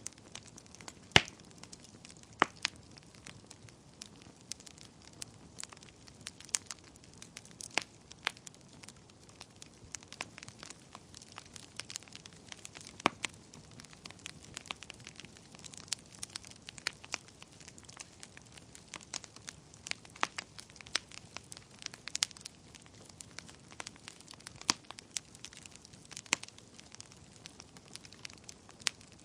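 Wood fire burning in a fireplace: irregular crackles and sharp pops over a low steady hiss of flame, with a few louder pops about a second in, again a second later, and midway.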